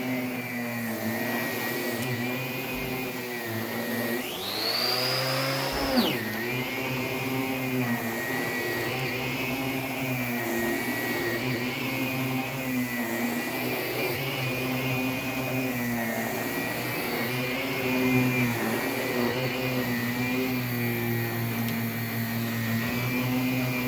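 Allegro Champion MUA50 central vacuum running with a steady drone. From about four seconds a high whine rises and then drops, ending just before six seconds with a sharp knock.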